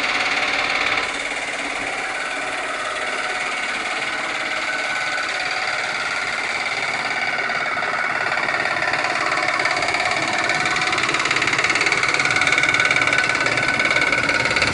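2007 Dodge Magnum's 2.7-litre V6 running steadily with a fast, even rattle from the timing chain.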